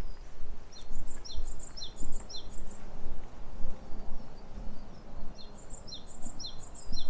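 A songbird singing two runs of quick, repeated high chirping notes, one about a second in and one after five seconds, over a steady low rumble.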